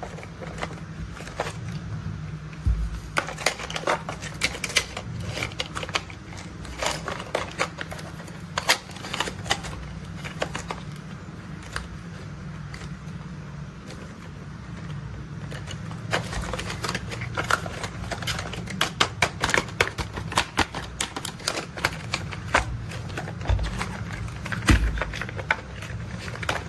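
Rapid, irregular clicks and taps of hard plastic as toy construction vehicles are handled and worked, over a steady low hum.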